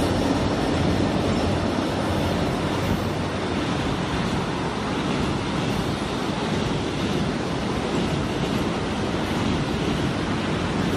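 Passenger coaches rolling past over a railway bridge behind a KORAIL EMD GT26CW diesel locomotive, a steady rumble of wheels on rails. The locomotive's engine hum is heard at the start and fades over the first couple of seconds as it pulls away.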